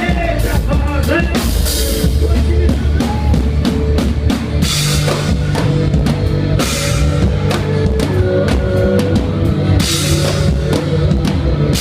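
A band playing music with the drum kit out front: steady bass drum and snare hits with cymbal crashes, over a sustained bass line.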